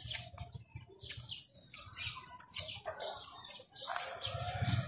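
Small birds chirping in the background: many short, high-pitched calls scattered throughout, fairly faint.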